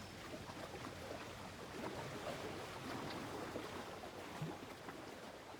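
Gentle lake-shore water ambience: water lapping with small splashes and trickles, slowly getting quieter.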